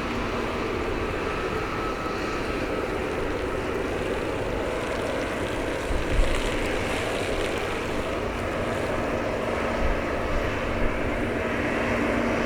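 Boeing 777-200ER airliner's jet engines running during landing, a steady jet noise with a faint steady whine.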